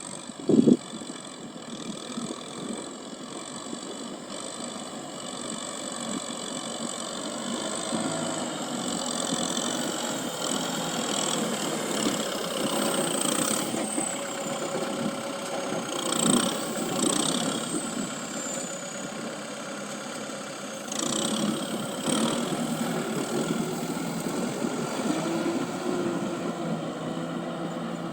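Tractor engine running steadily, gradually getting louder over the first ten seconds.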